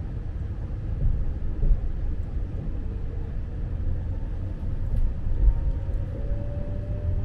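Low, steady rumble inside a Lastochka (Siemens Desiro RUS) electric train carriage, with a faint tone that rises slightly near the end.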